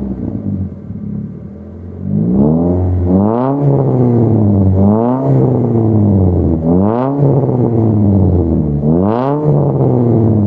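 Proton Gen-2's Campro 1.6 four-cylinder engine revved in four short blips through its aftermarket 4-2-1 extractor exhaust, the pitch climbing and falling back to idle each time.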